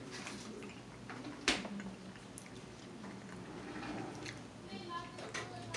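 A person chewing food with open-mouth eating sounds, and one sharp click about a second and a half in.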